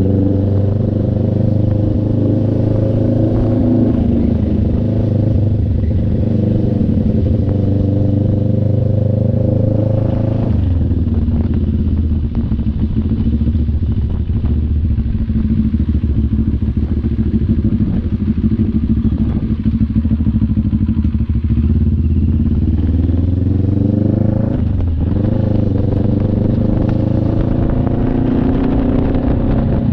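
CF Moto NK400 parallel-twin engine running while riding: steady at first, then the revs drop about a third of the way in and it runs lower and rougher for a while. Near the end there is a short dip, then the revs climb as it pulls away again.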